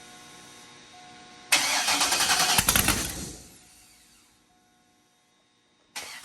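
408 stroker V8 on open zoomie headers starting up about a second and a half in and running very loud for around two seconds before dying away. It comes back loud near the end, with a fast, even pulsing. A steady low hum is heard before the first start.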